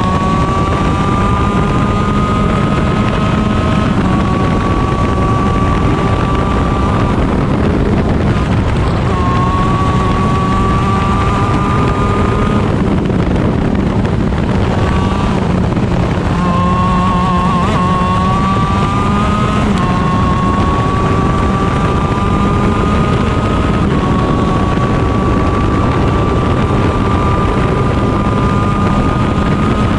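Stock Honda 125cc two-stroke shifter kart engine under full throttle, its pitch climbing through the gears with a brief drop at each upshift. About halfway through it falls away for braking and downshifts, then climbs again. Wind rushes over the microphone throughout.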